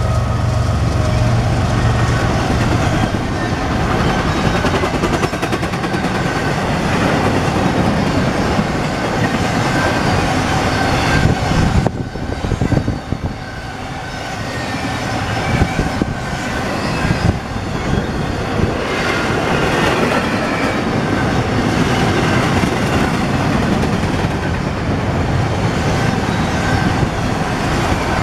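CSX intermodal freight cars rolling past close by: a steady rumble of steel wheels on rail with clickety-clack over the joints, and thin high wheel squeal drifting in and out. The train briefly dips in loudness about halfway through, with a few sharp clacks.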